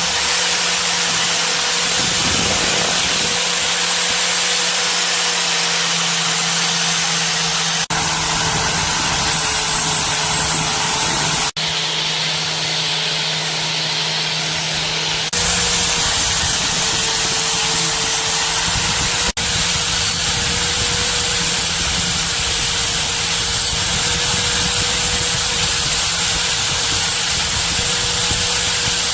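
Electric power tool running steadily: a motor hum with a high whine and grinding hiss, broken by a few abrupt cuts where the sound changes slightly.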